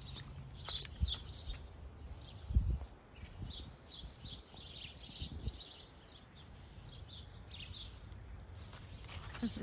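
Small birds chirping in quick, repeated high notes, with a couple of low thumps in the first few seconds.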